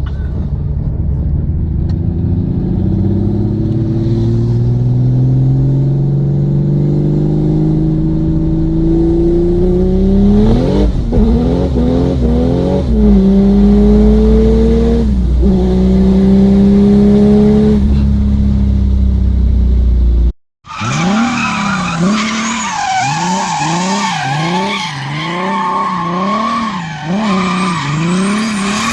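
Turbodiesel car engine pulling hard, its pitch climbing steadily with a few quick gear changes. After a cut, a diesel engine is revved up and down repeatedly, about once a second, with a high turbo whistle over it.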